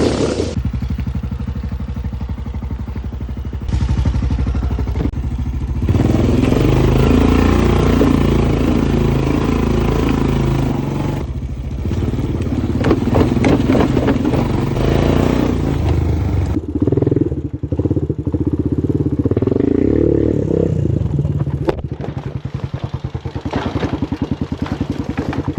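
Small single-cylinder four-stroke off-road engine, on a dirt bike or ATV, running under throttle, its speed rising and falling several times, with rattling and clattering partway through.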